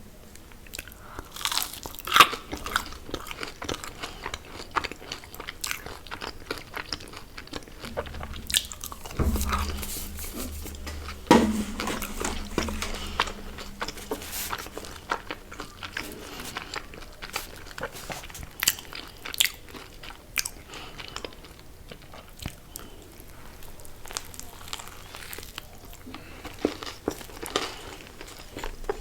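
A person biting and chewing crunchy fried fast food: a run of sharp crunches and chewing, the loudest bites about two seconds in and about eleven seconds in.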